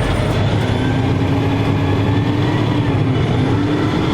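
Diesel engine of a 2014 Freightliner Coronado water truck running steadily under throttle while it drives the PTO water pump for the front sprayer. A steady engine tone sets in about half a second in.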